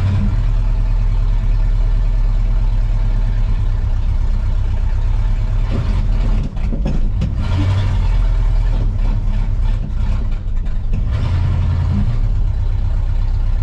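1985 Ford F250 pickup's engine running as the truck is driven, a steady low drone with a few rougher, uneven stretches. The engine bogs whenever it is given gas.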